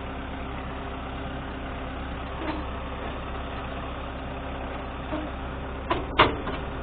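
MTZ-892 tractor's diesel engine idling steadily. A sharp metallic knock comes about six seconds in, with a lighter one just before it.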